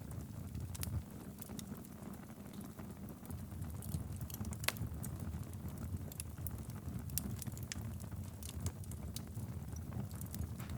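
Wood fire burning in a fireplace: a steady low rumble of flames with scattered sharp crackles and pops. One pop, about four and a half seconds in, stands out above the rest.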